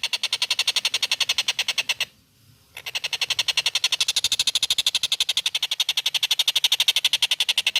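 Tengkek buto kingfisher giving a loud, rapid rattling call of even notes, about eleven a second: a run of about two seconds, a short pause, then a longer run of about five seconds.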